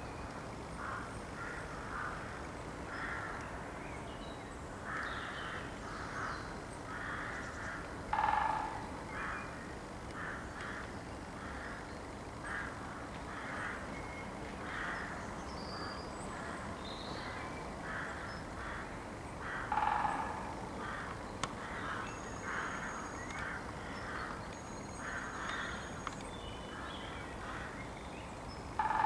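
Birds calling outdoors: a steady run of short, repeated calls, with a louder, lower call about eight seconds in, again about twenty seconds in, and at the very end. The caller is a bird the recorder cannot identify.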